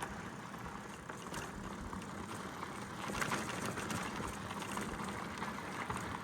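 Gravel bike rolling along a dirt road: steady tyre noise with a constant crackle and rattle of small stones.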